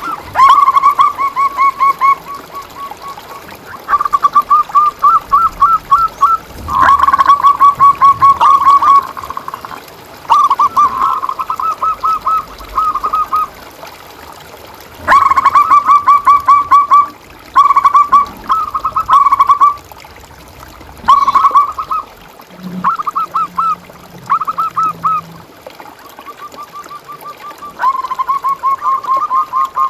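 Zebra doves (perkutut) singing: repeated phrases of rapid, clipped cooing notes, each phrase lasting one to two seconds. More than one bird sings, the phrases overlapping at slightly different pitches.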